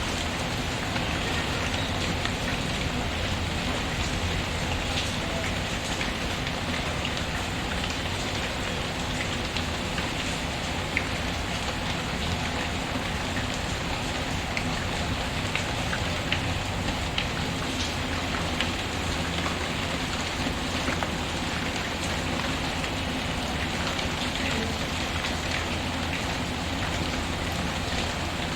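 Steady rain falling, with a few sharp pops scattered through it from a crackling wood fire.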